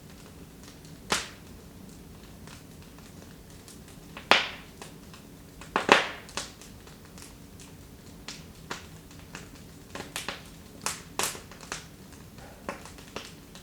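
Wood fire in a fireplace crackling, with a few loud single pops of burning wood about 1, 4 and 6 seconds in and a run of smaller crackles after that.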